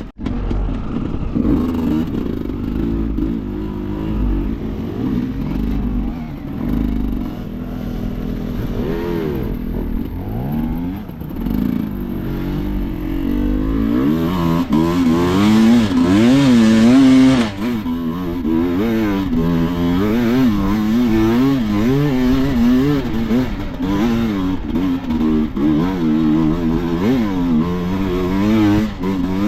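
Enduro dirt bike engine running at low, uneven revs, then from about halfway revved up and down in quick throttle bursts, loudest shortly after the change.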